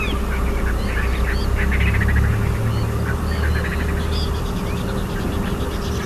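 Wild birds calling: short chirps and rapid chattering calls over a steady low rumble.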